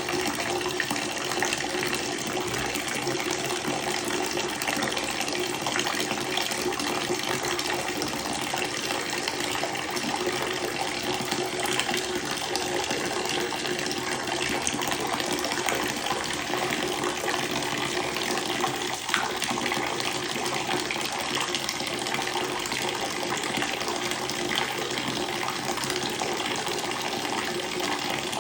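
Water running steadily from a tap, splashing in a continuous flow.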